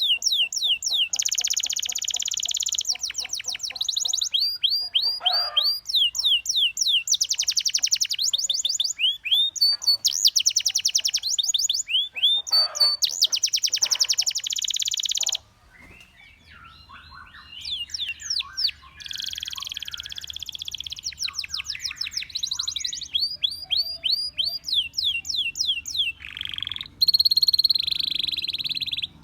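Domestic canary singing: fast trills of repeated high notes, switching to a new phrase every second or two, with a brief pause about halfway through.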